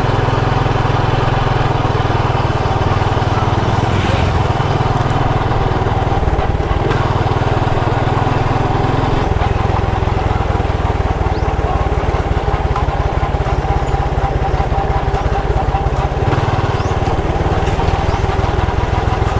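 Motorcycle engine running steadily while riding down a road, with a steady whine above the engine note; the engine note changes about nine seconds in.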